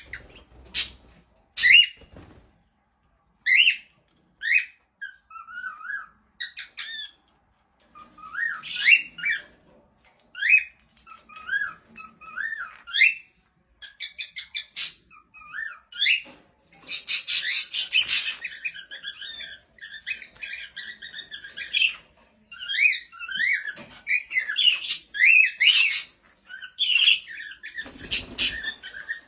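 Birds chirping and squawking: a steady run of short, quick calls that sweep up and down in pitch, getting busier and more overlapping in the second half.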